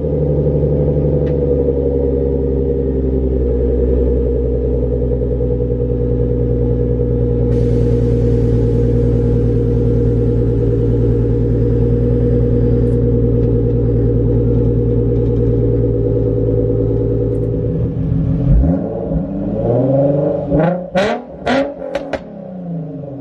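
Infiniti G35's V6 on Tomei headers, Motordyne ART pipes and a Motordyne Shockwave exhaust, fast-idling steadily after a cold start. About eighteen seconds in it is blipped through several quick revs that rise and fall, with a few sharp cracks among them.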